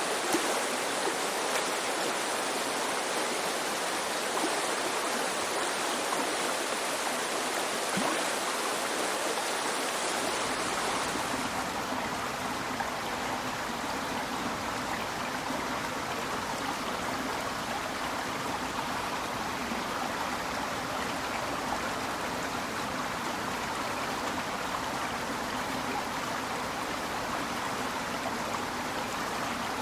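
The Azusa River, a clear snowmelt-fed mountain river, babbling steadily. About a third of the way through, the sound shifts to a deeper rush with less hiss.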